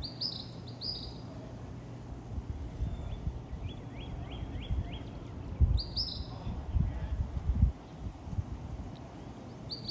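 Small songbirds chirping: a few short, high chirps and, about three seconds in, a quick run of about five repeated notes, over a steady low rumble.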